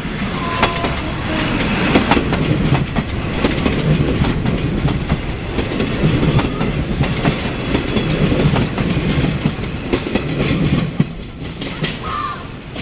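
A train passing close by, its wheels clattering over the rails with a low rumble, fading away near the end.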